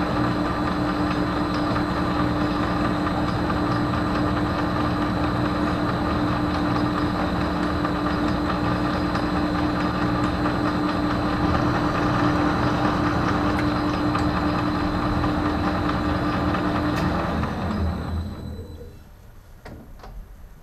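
Metal lathe running steadily at about 300 RPM under power, its motor and gearing giving a steady hum with held tones, during a threading pass on stainless steel. About 17 seconds in it is switched off and spins down to quiet.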